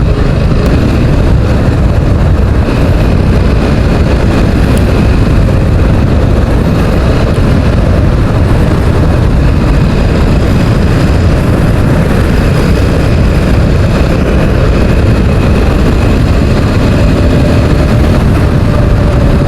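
Motorcycle cruising at steady highway speed: engine, tyre and wind noise in one constant loud rush.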